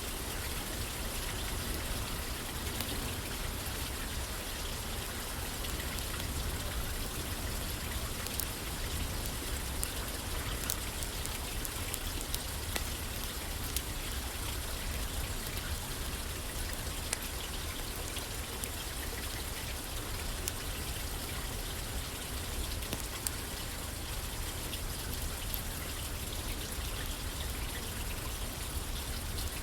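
Steady rain falling on a roof, an even patter with scattered sharp ticks.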